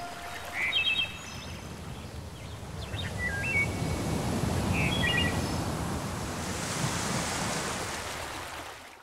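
Nature ambience of small birds giving short chirps over a low rushing wash of surf that swells and then fades. It cuts off abruptly at the very end.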